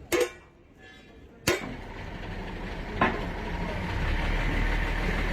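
Four sharp knocks, about a second and a half apart, over a steady vehicle engine rumble that grows louder from about four seconds in.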